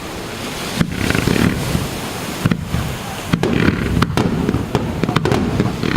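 Aerial firework shells bursting over the sea: a string of sharp bangs and crackles, thickest about halfway through, over a steady low rumble of detonations.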